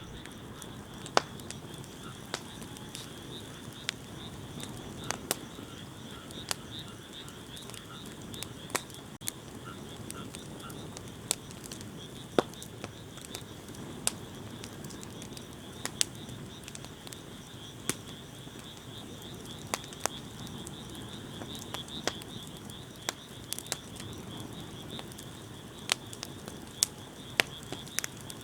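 Wood fire crackling, with sharp irregular pops about once a second over a low steady rush. A steady high trilling from insects or frogs runs in the background.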